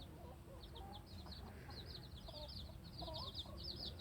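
A brood of newly hatched chicks peeping, many short high peeps that come thicker toward the end, with a hen clucking low beneath them.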